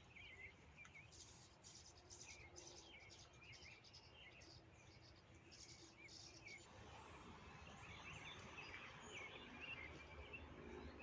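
Faint chirps and twitters of small birds, scattered throughout, with a faint high pulsing chirr from about a second in to about six seconds in.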